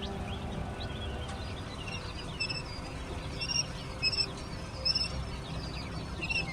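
Young chicks peeping: short, high chirps repeated in quick clusters, growing busier about two seconds in, over a steady low background rumble.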